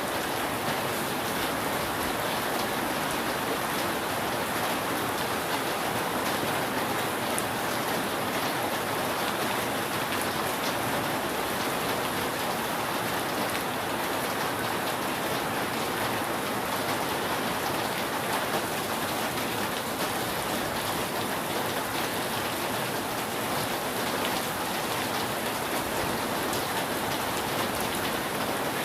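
Steady rain falling on a roof, a dense even hiss with many small drop patters and no thunder.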